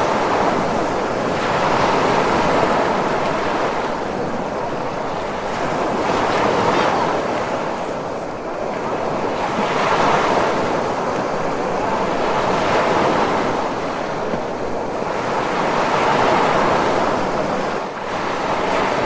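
Ocean surf: waves washing in and drawing back as a continuous rushing hiss that swells and eases about every three to four seconds.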